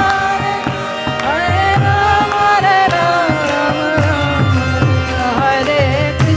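Kirtan music: sustained steady tones under a melody that slides up and down in pitch, with a hand drum beating a steady rhythm of low strokes.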